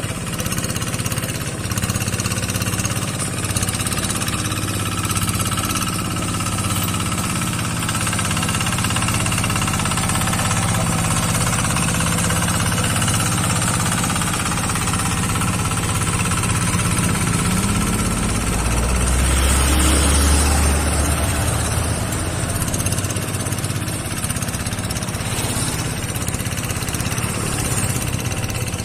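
Rice-paddy tractor's engine running steadily with a chugging, knocking rhythm. It swells into a louder, deeper rumble for a few seconds about twenty seconds in, then settles back.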